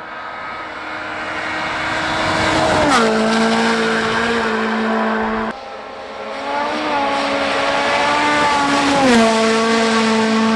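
Two Rally1 rally cars, each with a 1.6-litre turbocharged four-cylinder engine, running flat out past the microphone one after the other. In each, the engine note builds as the car closes in, then drops sharply in pitch as it goes by, and there is a hard cut between the two passes.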